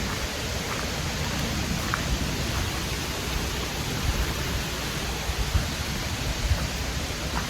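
Steady rushing of a mountain creek and waterfall, an even wash of water noise, with a few faint low thumps.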